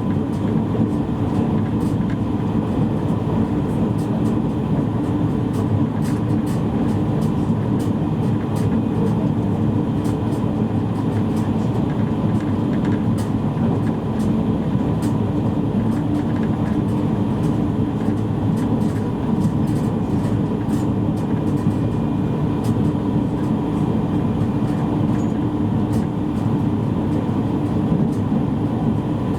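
Steady running noise of a JR East E653 series electric train at speed, heard inside a motor car: an even rumble of wheels on rail with a faint steady whine.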